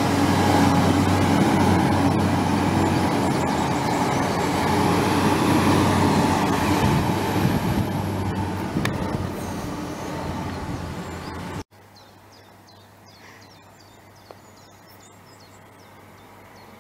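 A passenger train running past below on the line, a steady rumble of wheels and motors that slowly fades as it draws away. The sound cuts off abruptly about two-thirds of the way through, leaving quiet outdoor ambience with faint high chirps.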